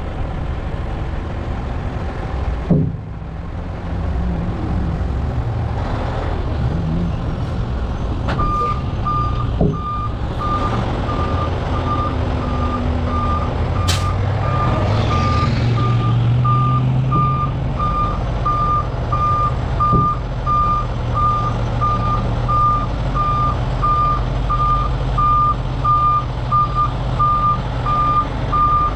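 A diesel dump truck's engine runs. About eight seconds in, a reverse alarm starts beeping steadily, about two beeps a second, as the truck backs up. A brief hiss comes about halfway through.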